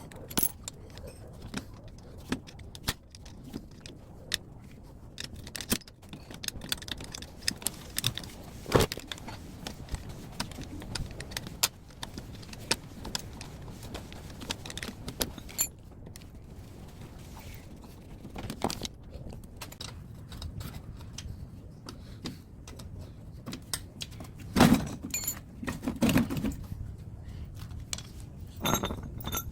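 Scattered metallic clinks, taps and knocks of tools and sheet-metal parts as a scrapped air-conditioner outdoor unit is taken apart by hand, with a few louder knocks near the end.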